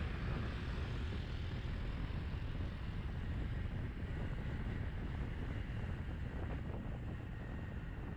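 Wind rushing over a GoPro Hero 7 Black's microphone while riding in traffic, a steady low rumble with road and vehicle noise mixed in.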